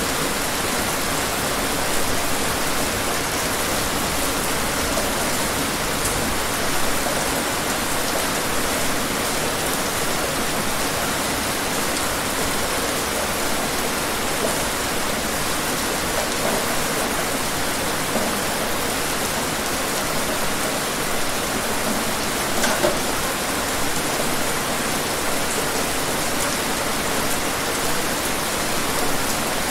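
Steady rain falling, an even hiss of water with a few slightly louder drops now and then.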